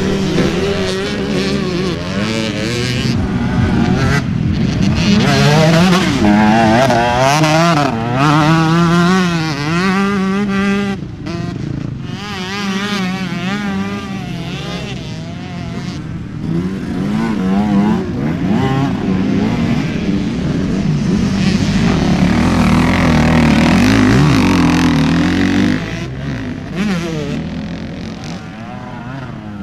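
Motorcycle engine revving up and down as the bike is ridden, its pitch rising and falling every second or two over a rushing noise, easing off near the end.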